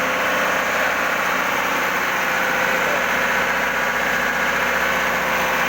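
Engine-room machinery running steadily: a constant loud drone with fixed steady tones that never changes in pitch or level.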